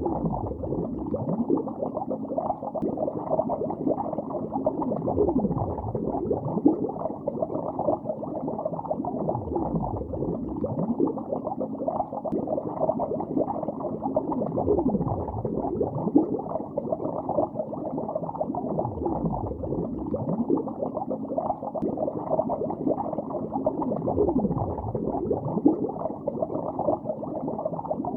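Underwater bubbling heard through water: a steady, dense stream of bubbles in a lake, with many small rising blips and a few louder pops.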